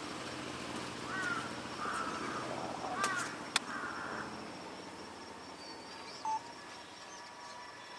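Crows cawing several times in the first half over a low steady hum that fades out about halfway through. There is a sharp click in the middle and a short beep near the end.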